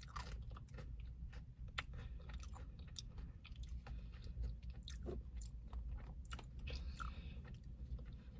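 Close-up chewing of ice cream with crunchy toffee pieces: faint wet, sticky mouth sounds with scattered small crunches and clicks, over a steady low hum.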